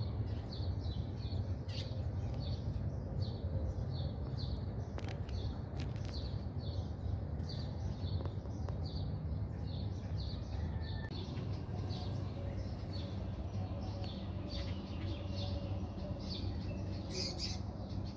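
A small bird chirping over and over in short, high notes, about two or three a second, over a steady low rumble.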